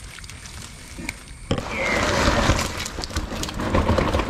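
Faint low background noise, then about a second and a half in, heavy monsoon rain cuts in suddenly at full level and keeps pouring.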